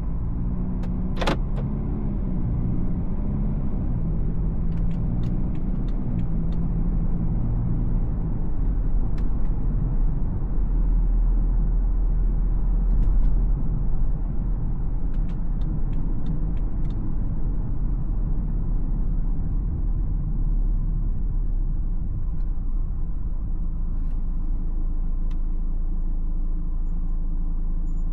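BMW X4 xDrive20d's four-cylinder diesel engine and tyre noise while driving: a steady low rumble, with the engine note changing over the first several seconds, then settling. A sharp click a little over a second in and a few faint ticks later.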